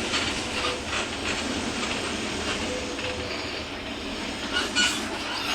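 Mercedes-Benz OF-1721 Bluetec 5 bus running, its diesel engine under a steady din of rattling and clattering from the body and fittings, with brief high squeals near the end.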